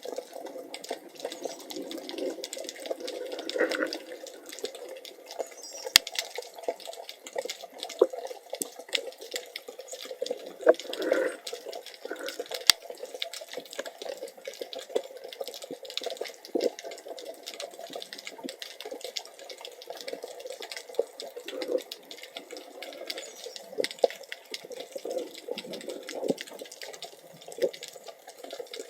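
Underwater water noise picked up by a camera in a waterproof housing: a muffled, steady wash with constant small clicks and crackles, and a couple of sharper clicks around six and thirteen seconds in.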